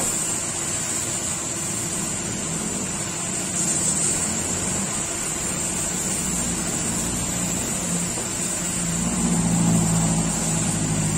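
A motor running steadily under a constant high hiss, its low hum growing louder about nine seconds in.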